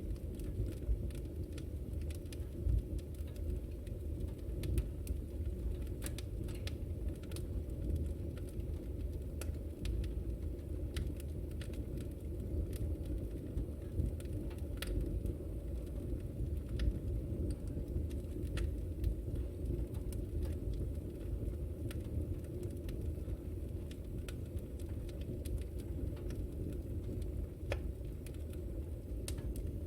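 Wood fire in a fireplace crackling: many scattered, irregular sharp pops and snaps over a steady low rush.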